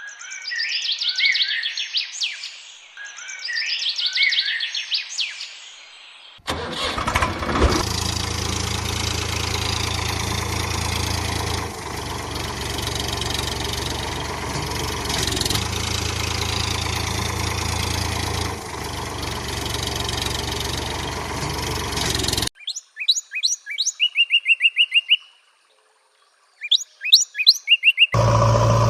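Birds chirping. About six seconds in, a vehicle engine starts and runs steadily for about fifteen seconds, its low hum dipping and returning every few seconds. The engine cuts off suddenly, and quick runs of high chirps follow.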